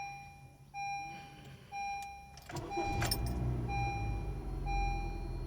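Honda City's warning chime beeping about once a second, six times, over the engine idling. About halfway through there are a couple of clicks and the engine's idle gets louder and fuller.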